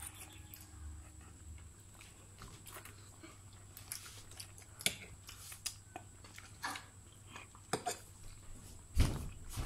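Close-up eating sounds of pancit canton noodles: chewing, with scattered light clicks of utensils. A louder knock comes near the end.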